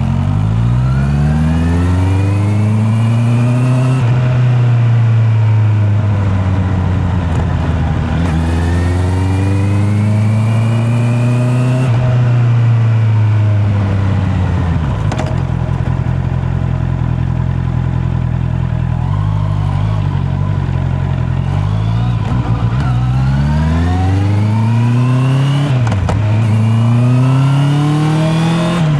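Honda CB650R inline-four motorcycle engine under way, its pitch rising as it accelerates and falling as it eases off, several times over, with a steadier stretch around the middle.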